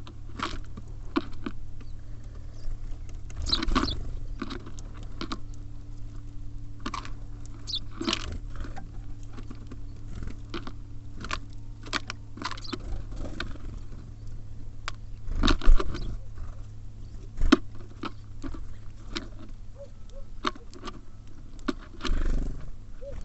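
Tits and sparrows feeding at a bird feeder: irregular pecking taps, clicks and scratches as they hop about and pick at seed, with two louder knocks about two-thirds of the way through. A steady low hum runs underneath.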